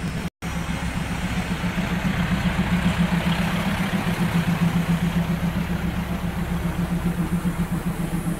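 Train rolling slowly over a broken rail: a steady low drone over the rumble of the wheels and undercarriage. The sound cuts out completely for a moment just after the start.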